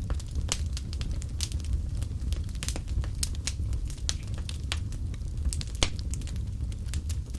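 Wood fire crackling in a fireplace: irregular sharp pops and snaps over a low steady rumble, with one louder pop about six seconds in.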